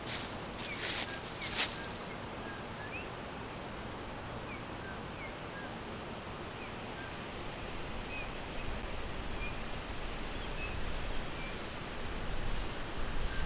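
Forest ambience: small birds chirping in short, scattered notes over a steady background hiss. A few sharp rustles or clicks in the first two seconds, the loudest just after one and a half seconds, and a low rumble that grows near the end.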